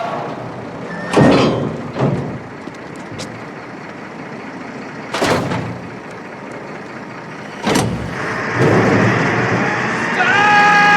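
Garbage truck running, with four sudden loud hissing-clanking bursts and the sound swelling near the end, where a long steady multi-pitched tone begins.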